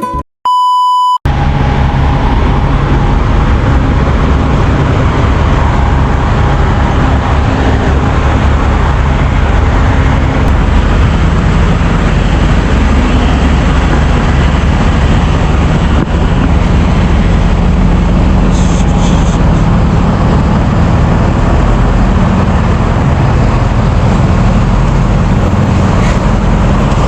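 A short electronic beep, then loud, steady engine and road noise of a truck driving on the highway, with a low engine hum beneath the rumble.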